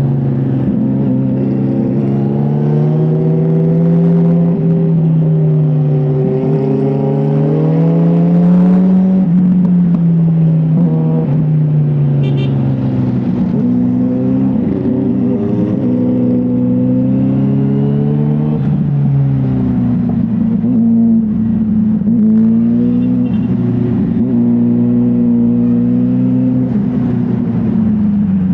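Motorcycle engine running while riding, its pitch rising and falling several times as the throttle opens and closes, dropping low around a third of the way in and again near two-thirds.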